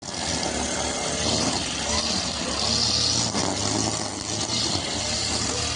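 Motorcycle engine running steadily on the move, with wind and road noise.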